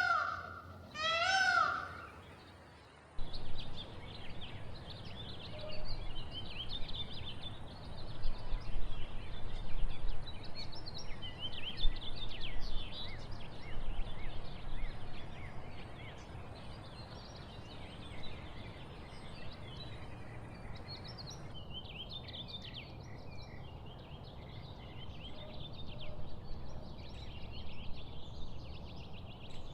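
A cat meows twice. Then, from about three seconds in, a chorus of many small birds chirps and sings over a low steady rumble, changing abruptly to a different bird chorus partway through.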